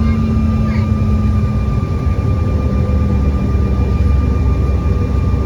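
Steady jet engine drone and rumble heard inside a regional airliner's cabin, with a constant whine over a deep roar. A lower hum in it fades out about two seconds in.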